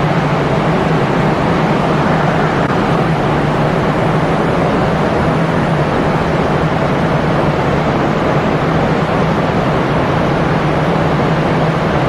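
Steady, loud mechanical roar with a constant low hum underneath, holding level throughout without changing pitch.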